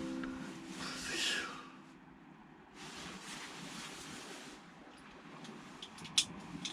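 The last notes of background music ring out and fade over the first two seconds; then surf washing on the shore with wind on the microphone, swelling and ebbing, and a single sharp click about six seconds in.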